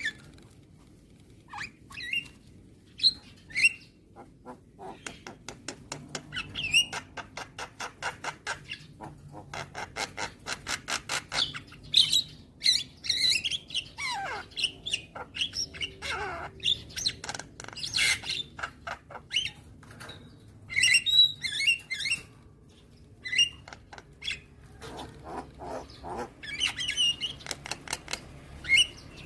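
Javan myna (jalak kebo) singing: fast runs of dry clicks mixed with sharp squawks and short whistled notes, a few of which slide down in pitch.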